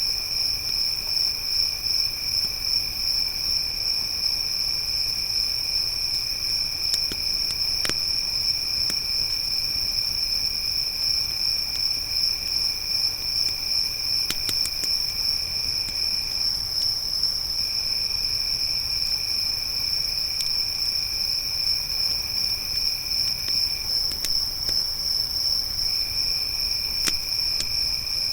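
A steady high-pitched chorus of crickets, with a second, lower insect trill that drops out twice for a second or two. A handful of sharp pops from a crackling campfire sound now and then.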